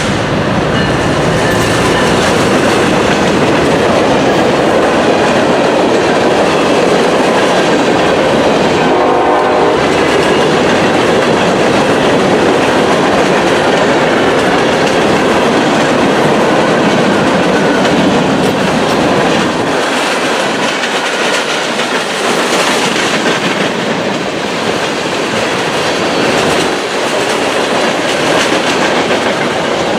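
A train passing close by: its cars rolling past with a loud, steady rumble and the clatter of wheels on the rails.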